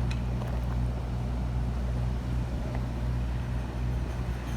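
An engine running steadily, a low even rumble, with a couple of faint clicks near the start.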